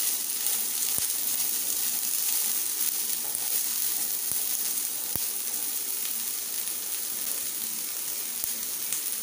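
Diced potatoes and green chillies sizzling steadily in hot oil in a nonstick frying pan.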